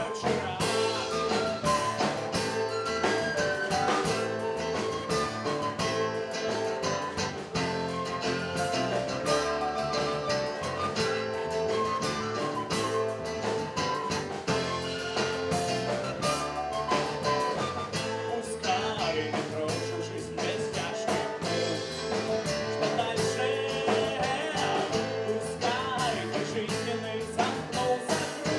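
Live rock band playing a guitar-led song, with some singing.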